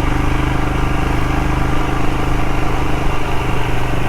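Royal Enfield Himalayan's single-cylinder engine running steadily under way at an even, low road speed, with wind and road noise.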